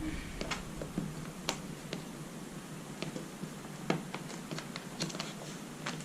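Light, irregular clicks and taps of the laptop's plastic case being handled and pressed as it is put back together.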